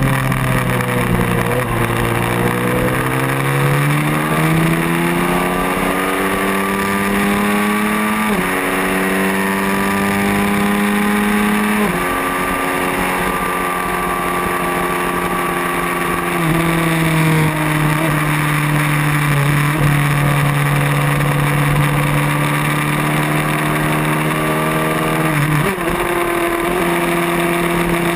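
Race motorcycle engine heard onboard over steady wind rush. The revs fall as the bike slows at first, then climb with gear changes about 8 and 12 seconds in, hold fairly level for much of the rest, and change again near the end.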